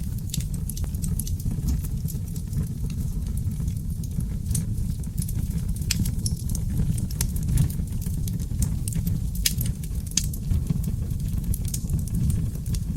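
Wood fire in a fireplace crackling and popping, with sharp irregular snaps over a steady low rumble of the burning logs.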